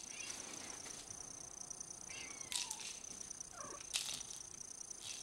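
A few faint, short falling mews from an 8-week-old Bengal kitten, with soft clicks and taps of handling scattered through.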